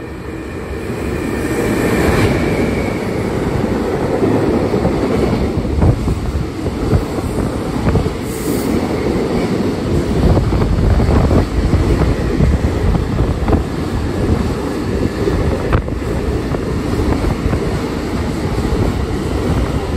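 Container freight train hauled by a JR Freight EF210 electric locomotive passing through the station without stopping, with a string of Koki container flatcars. A heavy, continuous rumble of wheels on rail builds over the first couple of seconds and stays loud as the wagons go by, with a brief high tone about two seconds in.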